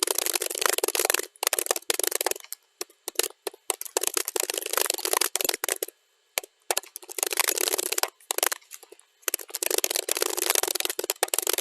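Computer keyboard typing, played back at double speed, so the keystrokes come as a dense rapid clatter. It breaks off in short pauses about 2 s in, 6 s in and 9 s in, then picks up again.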